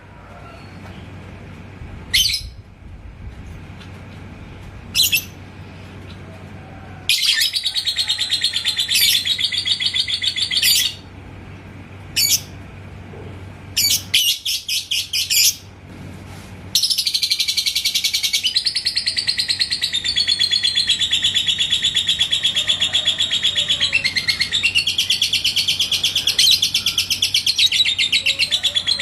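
Lovebird singing ngekek. A few single high chirps, then bursts of rapid chattering trill about seven seconds in and again near the middle, then one long unbroken trill that runs on from just past the middle to the end.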